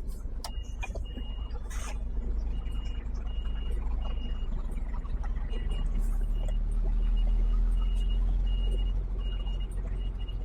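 HGV diesel engine running while a high-pitched reversing alarm beeps over and over; the engine grows louder about six seconds in. A few sharp clicks come in the first two seconds.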